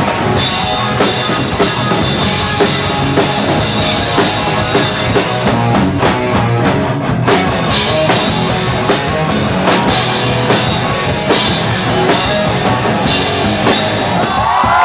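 Live rock band playing, with a drum kit beating steadily under guitars and bass.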